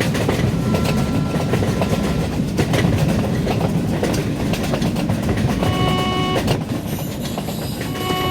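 Passenger train passing at high speed: a steady heavy rumble with rapid wheel clatter over the rail joints. A steady multi-pitched tone sounds briefly about six seconds in and again at the very end.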